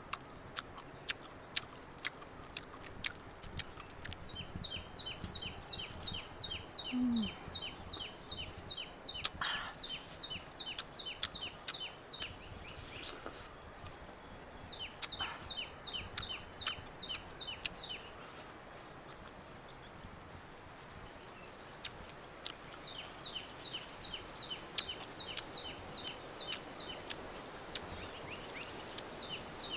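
A bird calling in fast runs of short, falling chirps, each run lasting a few seconds and coming three or four times, with scattered sharp clicks of chewing honeycomb in between.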